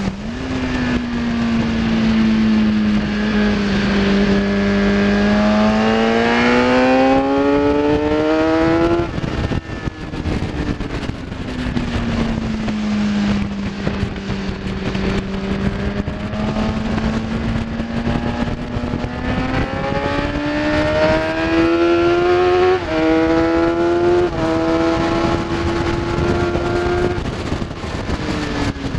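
Kawasaki ZX-10R inline-four sportbike engine at high revs on track, its note climbing under hard acceleration. It drops abruptly about nine seconds in as the throttle closes, then builds slowly again, with two quick dips in pitch near the end where gears are shifted up. Wind rushes steadily over the microphone underneath.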